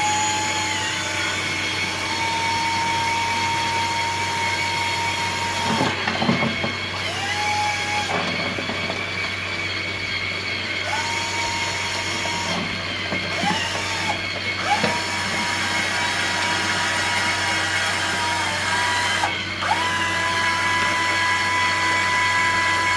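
Small electric motors driving the model dump-pit conveyors, running with a steady whine that sags and drops out briefly several times.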